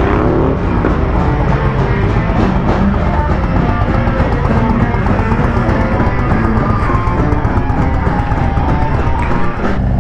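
Live rock band playing, with electric guitar and a drum kit.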